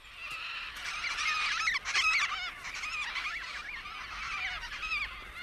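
A group of Major Mitchell's cockatoos calling, many harsh, wavering screeches overlapping one another, loudest about two seconds in.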